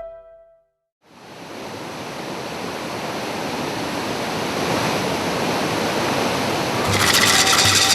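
Steady rushing water fades in about a second in and slowly grows louder. Near the end a louder, higher sound with a fast pulse joins it.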